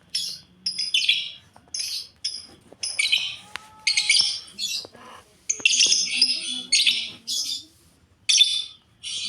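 Lovebirds chattering in short, harsh, high-pitched chirps, in about a dozen quick bursts with brief gaps between them, some running on for nearly a second.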